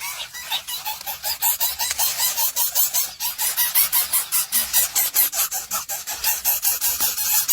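Baby birds' begging cheeps: rapid, high-pitched calls repeated about five or six times a second with no break, the sound of hungry chicks calling for food.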